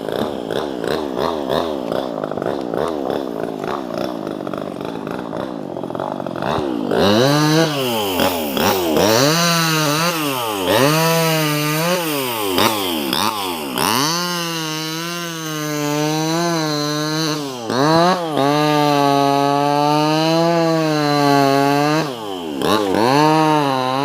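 Two-stroke 258 top-handle chainsaw cutting branches. For the first several seconds the engine runs under load with a wavering pitch. It is then blipped up and dropped back repeatedly, about once every second and a half. After that it is held at high revs with a slightly wavering pitch, drops briefly near the end and revs up again.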